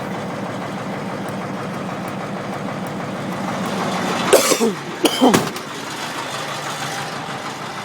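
Caterpillar 3208 V8 diesel engine running steadily. A person coughs twice about four and five seconds in.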